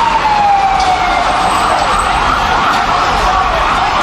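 Emergency vehicle sirens: one wail siren gliding slowly down in pitch while a second siren yelps rapidly up and down, about three sweeps a second, over steady traffic noise.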